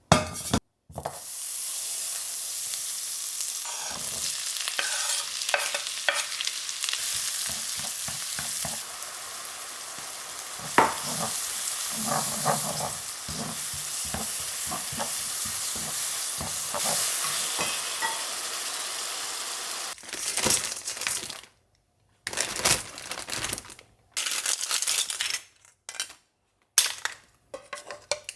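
Food sizzling as it fries in a pan, a steady hiss with the scrape and click of a utensil stirring it. After about 20 seconds the steady sizzle stops and gives way to short separate bursts of sound.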